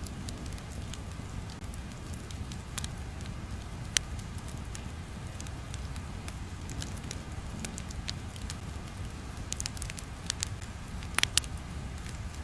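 Crackling fire ambience: a steady low rumble with scattered sharp pops, a cluster of them about eleven seconds in.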